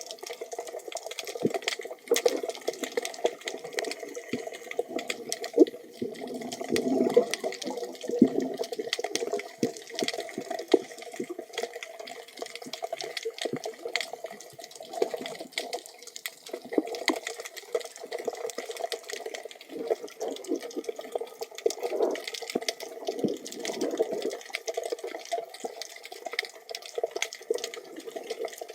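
Underwater water noise: a steady wash of moving water with many sharp clicks and crackles throughout.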